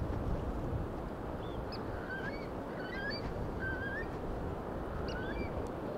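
A steady rushing noise with bird calls over it: about four short, rising calls, between two and five seconds in.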